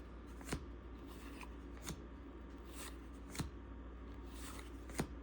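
1987 Topps cardboard baseball cards being flipped off a stack one at a time, a light flick of card on card about every second and a half.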